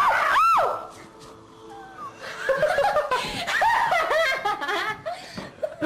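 A short, sharp high-pitched cry right at the start, then people laughing in repeated short bursts from about two and a half seconds in.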